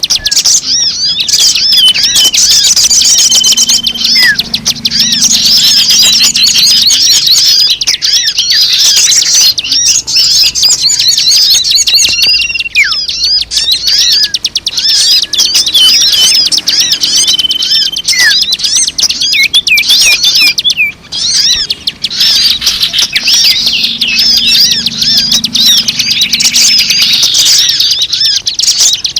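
A dense chorus of many small birds chirping and twittering at once, a recording made to lure birds in. A short, level whistled note recurs every few seconds above the chatter.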